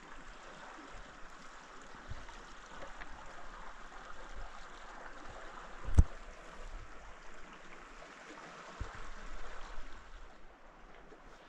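Steady rush of flowing stream water, with one sharp knock about halfway through.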